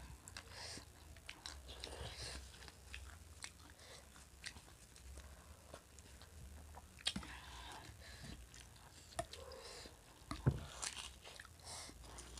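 Close-up chewing and crunching of food and crunchy snacks, with steel spoons clicking against steel bowls; two sharper clinks, one about midway and one past ten seconds in.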